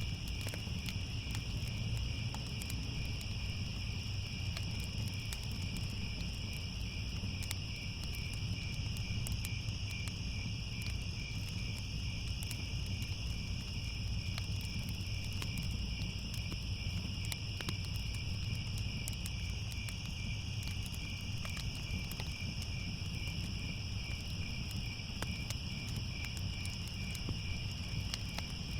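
A steady night chorus of crickets chirping continuously in a high, pulsing trill, over a low rumble with scattered faint crackles.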